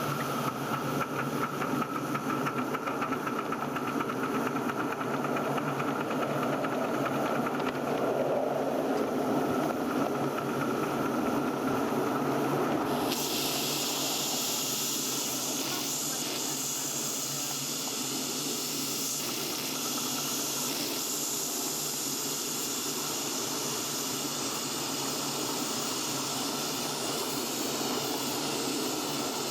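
Steam hissing from a 7¼-inch gauge miniature steam locomotive: a strong, high hiss comes on suddenly about thirteen seconds in and holds steady, over a lower, steady hum.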